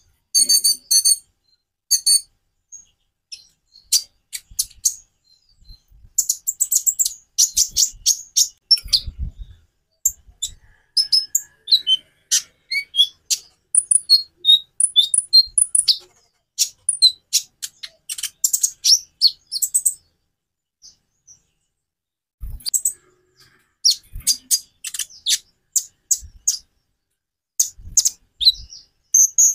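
Konin (kolibri ninja) sunbird singing a fast, high, varied series of thin chirps and trills in bursts with short pauses.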